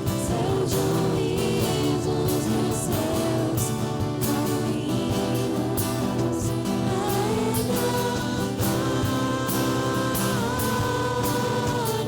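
Live worship band playing a praise song, with several voices singing together over steady instruments and a drum beat.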